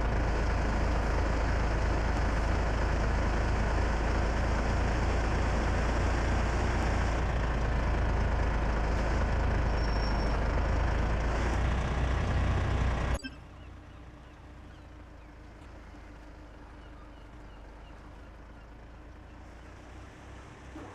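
Heavy truck engine running loudly close by, cut off suddenly about two-thirds of the way through; a much quieter steady hum follows.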